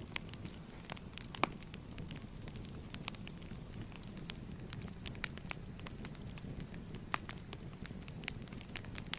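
Wood fire crackling: a steady low rumble of flames with irregular sharp pops and snaps, a louder pop about a second and a half in.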